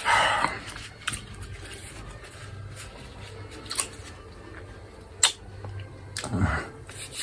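Close-up eating sounds: wet chewing and lip smacks as the last of a roast chicken is eaten, with a few sharp clicks.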